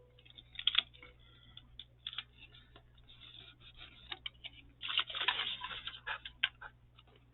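Paper and vellum stickers being handled: scattered light taps and clicks with short bursts of rustling, the longest rustle about five seconds in.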